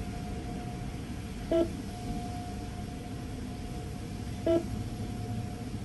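Car wash payment kiosk beeping twice, two short tones about three seconds apart, over the low rumble of the car idling and a faint steady whine.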